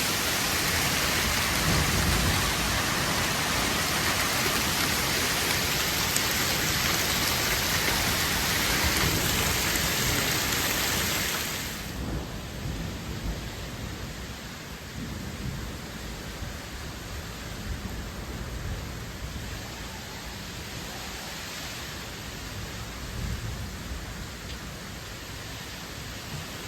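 Hailstorm downpour hitting hard as a dense, steady hiss that drops abruptly to a lighter, quieter fall about twelve seconds in, with low rumbles swelling now and then.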